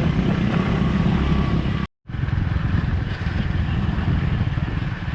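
Motorbike engine running while riding, with wind and road noise. The sound drops out completely for a split second about two seconds in, then carries on as before.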